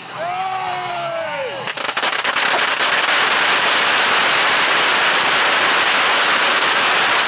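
Fireworks crackling densely and loudly from about two seconds in, a steady wall of rapid pops. This comes after a few brief gliding, arching tones at the start.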